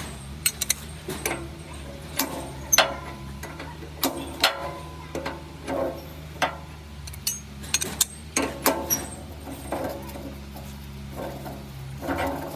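Irregular metallic clinks and knocks, some ringing briefly, typical of hand tools and metal parts being handled, over a steady low hum.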